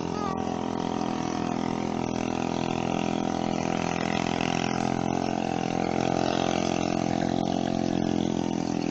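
A motor or engine running steadily at an even pitch.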